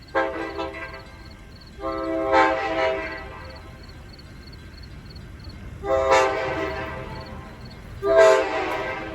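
Horn of a Long Island Rail Road MP15AC diesel switcher running light, a chord of several steady tones blown four times: a short blast, two longer ones, and a short one near the end.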